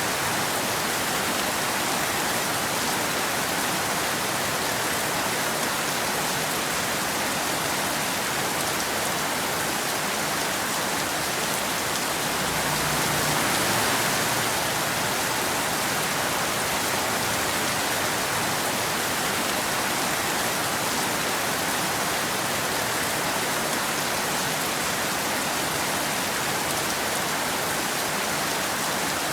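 Steady rain falling and pattering on a hard surface, an even hiss that swells slightly about halfway through.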